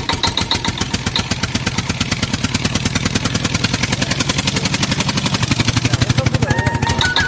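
A small engine running with a fast, even putter of about a dozen beats a second, getting a little louder about five seconds in.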